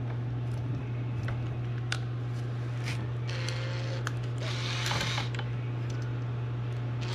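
Light clicks and knocks of engine parts being handled on a workbench, with two brief scraping noises about halfway through, over a steady low hum.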